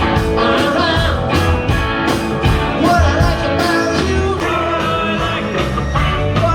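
A live country-rock band playing: guitars over a steady drum beat, with singing.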